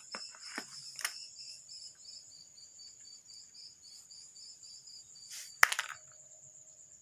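Insects, likely crickets, chirping steadily in a fast pulsing high trill, with a few light handling clicks in the first second and a single sharp click a little past five seconds in.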